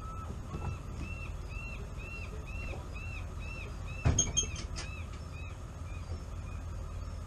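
A bird calling a run of repeated arched notes, about two a second, fading out near the end, over a low steady rumble. A single sharp knock about four seconds in.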